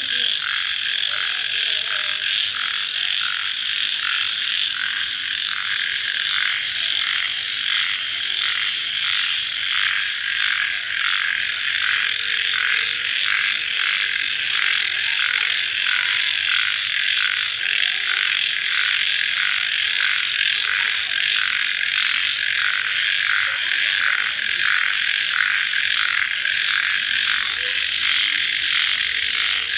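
Dense chorus of crickets chirping at night, a steady shrill trilling with a regular pulse about twice a second.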